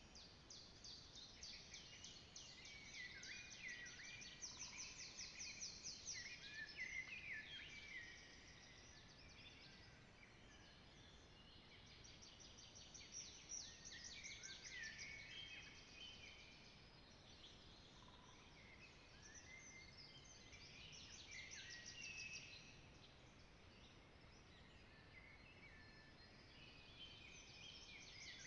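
A faint chorus of several songbirds singing at once, with fast rattling trills and short chirped phrases overlapping.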